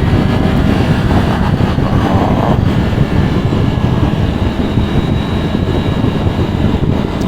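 Motorcycle under way at road speed: the engine runs and road and wind noise make a steady low drone.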